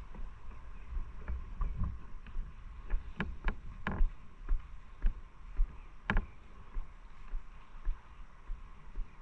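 Motorcycle engine running with a low, uneven rumble, over which come scattered sharp knocks and clicks.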